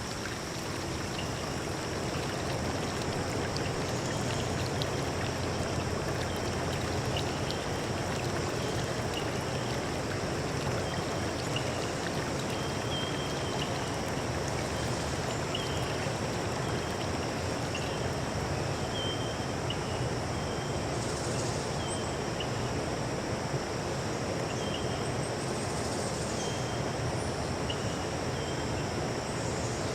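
Steady rush of a flowing stream. Over it runs a constant high-pitched insect buzz, with short chirps repeating every second or two.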